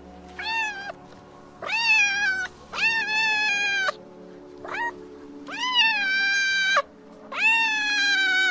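Domestic cat meowing repeatedly: about six meows, each rising and then sliding down in pitch, one of them short and the longest over a second.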